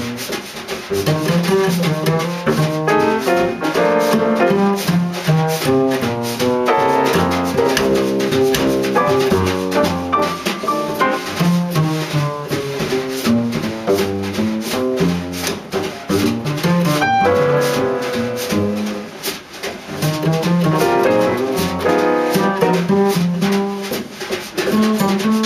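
Jazz quartet of saxophone, piano, double bass and drum kit playing live, with busy drums and cymbals under a steady run of melodic notes.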